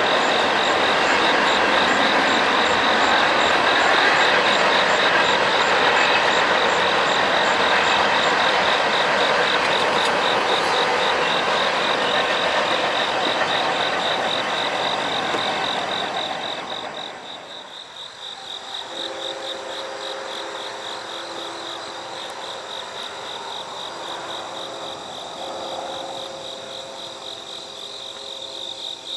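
Train rolling past in the dark, a loud steady rush of noise that dies away about two thirds of the way through. Insects chirp in a fast, even pulse throughout, and after the train fades two steady low tones sound on and off.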